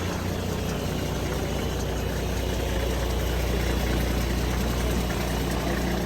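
A diesel engine running steadily at idle, a low steady drone.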